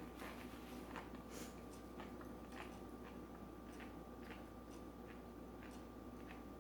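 Close-up chewing and mouth sounds: soft, irregular clicks several times a second over a faint steady electrical hum.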